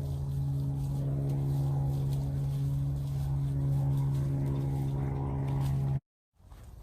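A motor engine running at a steady speed, with an even hum that cuts off suddenly about six seconds in.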